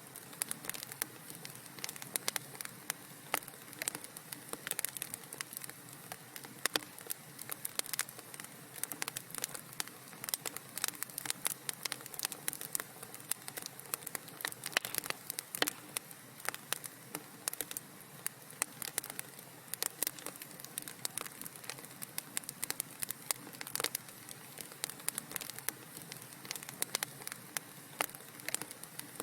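Wood fire crackling in a fireplace: many sharp, irregular pops and snaps over a steady soft hiss.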